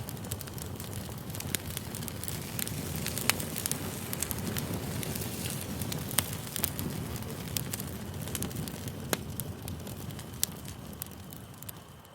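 Campfire burning: a steady rush of flames with sharp crackles and pops of burning wood scattered throughout, the loudest pop about three seconds in. The sound fades down near the end.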